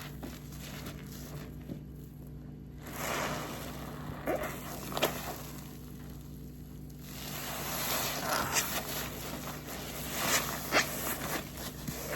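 Pink car-wash waffle sponge full of detergent being squeezed and wrung: wet squelching and foam crackling with liquid running off, in a spell about three seconds in and again from about seven seconds on, over a steady low hum.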